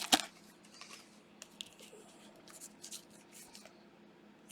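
Faint, scattered clicks and rustles of trading cards being handled and flipped through, after a brief crinkle right at the start.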